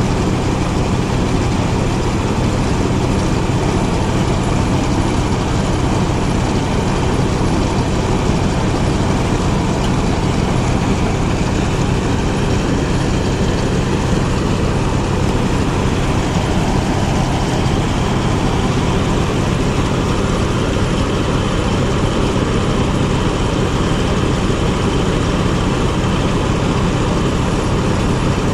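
Rice threshing machine running steadily under load: its engine's low, even drone under a loud, continuous rush from the threshing drum and blower.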